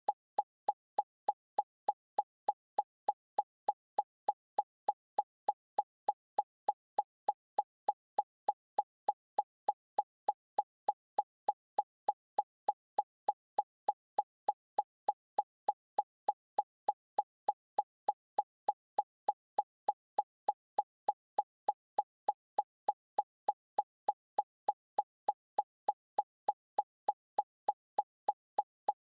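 A short, identical plopping pop repeated at a perfectly even pace, about three a second, with silence between each one: an electronic sound effect on the soundtrack.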